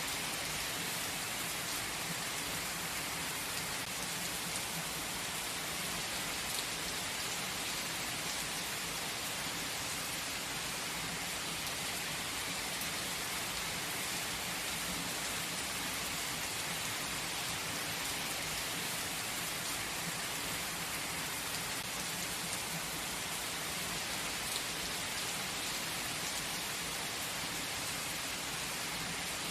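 Gentle rain falling steadily: an even hiss with a few faint drop ticks scattered through it.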